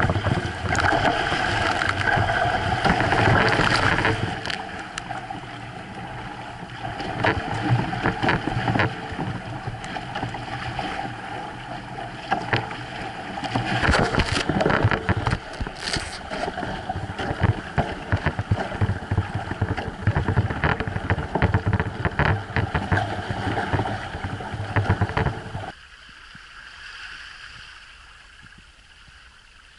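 Water rushing and splashing along the hull of a Hobie sailboat moving under sail, with irregular slaps and spray. About 26 seconds in it drops abruptly to a much quieter hiss.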